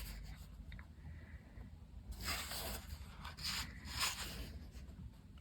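Paper pages of a colouring book being turned, with a few soft rustles between about two and four seconds in.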